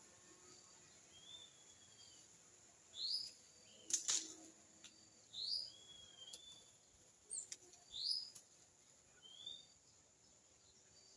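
Wild birds calling: about six short, clear whistled notes, some rising and some falling, spaced a second or two apart. A sharp knock about four seconds in is the loudest sound.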